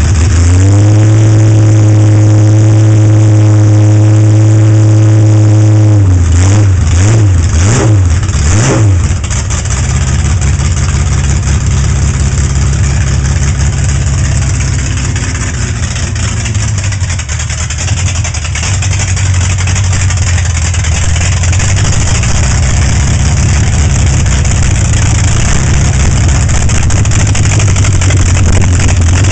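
Hot-rod straight-six engine with triple carburetors and raised compression, revved up and held at a steady high speed for about five seconds. It is then let back down, the revs wavering for a few seconds before it settles to idle.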